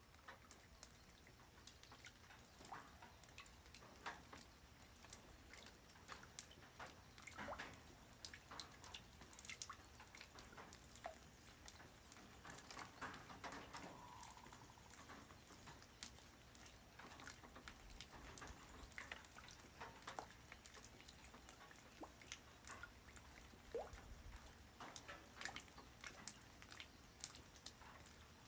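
Light rain on the ground, heard faintly: separate drops landing as scattered, irregular ticks and drips over a soft background hiss.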